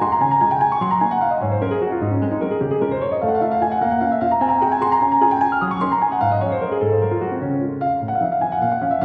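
Background piano music, gentle and flowing, with runs of notes falling in pitch over a low bass line.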